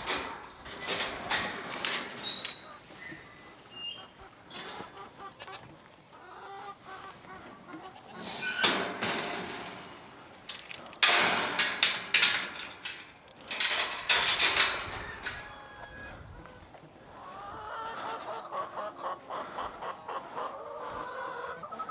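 A flock of chickens clucking and murmuring, taking over in the last few seconds. Several loud rustling bursts come in the first half, with a few high chirps among them.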